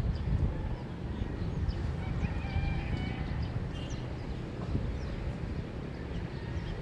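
Early-morning neighbourhood ambience: a steady low rumble, small birds chirping, and a rooster crowing about two to three seconds in.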